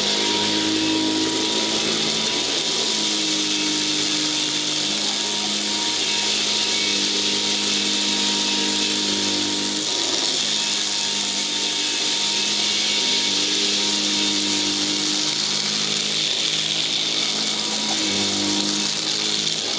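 Royal Model 608 upright vacuum cleaner running steadily, picking up birdseed: a constant motor whine with a rush of air, its lower hum shifting in pitch every few seconds.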